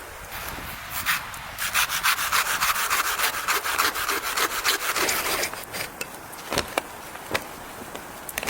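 Wood being sawn by hand: a quick run of rasping strokes that starts about a second and a half in and stops after about four seconds, followed by a few scattered sharp knocks.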